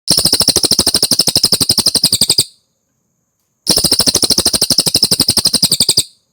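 Cililin bird singing two fast, loud trills of rapidly repeated notes, each about two and a half seconds long, with a short pause between them.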